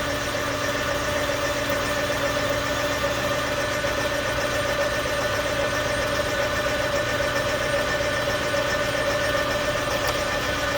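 Metal lathe running steadily, a boring bar cutting out the bore of a pulley, with a constant hum.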